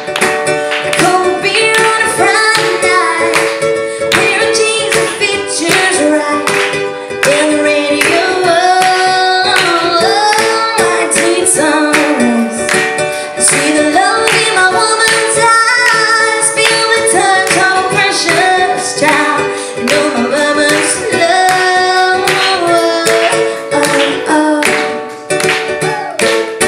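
Live music: a woman singing a melody over strummed guitar in a regular rhythm.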